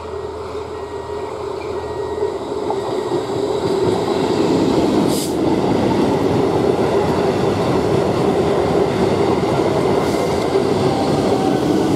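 Electric multiple unit local train running past close by: the rumble of its wheels on the rails grows over the first four seconds, then holds loud and steady as the coaches go by.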